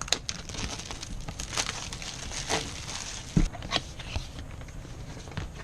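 Cardboard box and packing material being handled and opened: irregular rustling and crinkling with scattered clicks and a few sharper knocks, the strongest about three and a half seconds in.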